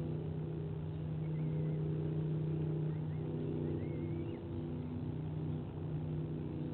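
A steady low mechanical drone, like a distant motor running, with a few faint, short bird chirps over it.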